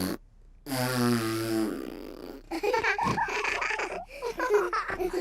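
A buzzing, fart-like sound effect of about a second, standing in for a pig's snort, starting just under a second in. It is followed by cartoon voices giggling.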